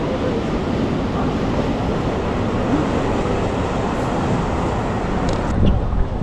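Wind buffeting the microphone: a steady, loud low rush, with a few small clicks about five seconds in.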